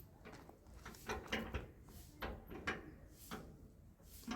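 A handful of faint, separate knocks and clicks, about six of them, with quiet between.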